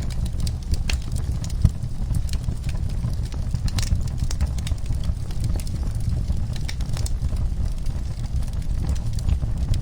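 Wood fire crackling, with irregular sharp pops and snaps over a steady low rumble; one sharper pop about a second and a half in.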